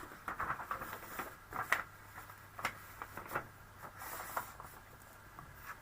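Scattered light clicks, taps and a brief paper rustle as card and stamping supplies are handled on a craft table, over a faint steady hum.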